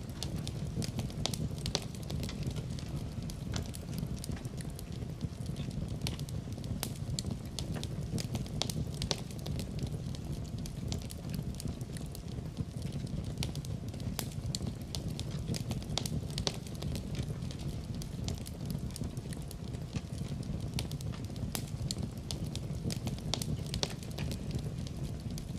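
Fire burning in a fireplace: a steady low rumble of flames with frequent irregular sharp crackles and pops.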